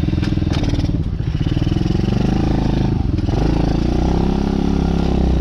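DB14 youth dirt bike's small engine running under way, its pitch rising and falling with the throttle and dipping briefly about three seconds in, with a few sharp clicks in the first second. The engine is not yet fully warmed up.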